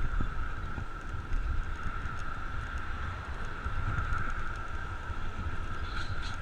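Wind buffeting the microphone with road and riding noise from a moving bicycle, a gusty low rumble under an even hiss, with a steady high-pitched hum throughout.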